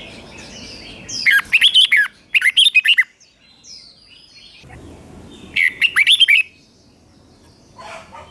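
Red-whiskered bulbul singing: quick, loud phrases of rapidly rising and falling warbled notes, two close together about a second in and another a few seconds later, with quiet gaps between.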